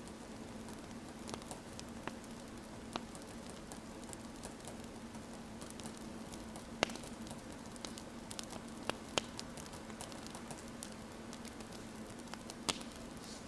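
Wood fire crackling: irregular sharp pops and snaps over a steady hiss and a low hum.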